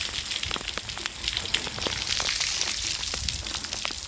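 Heavy rain falling: a steady, dense crackle of many drops hitting.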